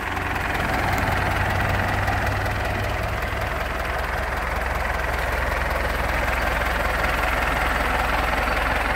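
International 574 diesel tractor engine idling steadily.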